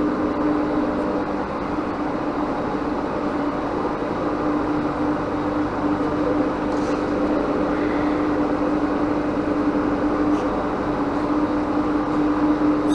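A workshop machine running with a steady hum at one constant pitch over a noisy mechanical bed, with a few faint clicks.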